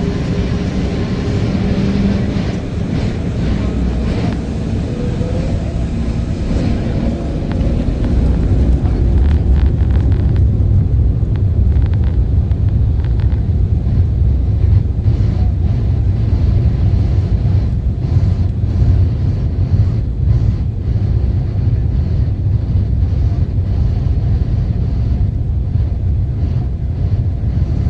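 Embraer 190's twin turbofan engines at take-off thrust: engine tones with some pitch glides at first, then a heavier, louder low rumble from about ten seconds in that holds steady.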